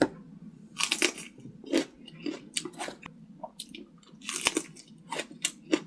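A person biting and chewing crunchy food close to the microphone, with irregular crisp crunches several times a second.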